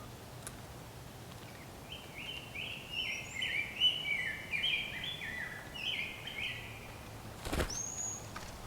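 Bird calling: a quick run of short, repeated chirping notes for about five seconds, then a sharp click and one brief rising whistle near the end.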